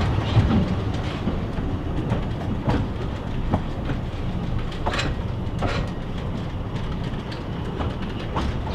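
Narrow-gauge train running along the track: a steady low rumble with irregular sharp clicks of wheels passing over rail joints.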